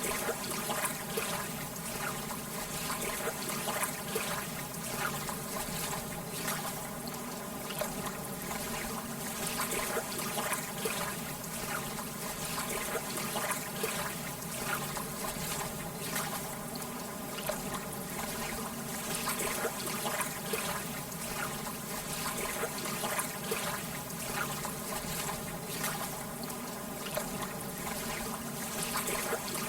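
Gentle lake water lapping and trickling: a steady wash of water with many small splashes.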